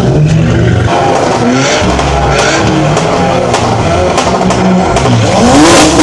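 Modified car engines revving and running, several at once, with short sharp pops among them; one engine revs up near the end.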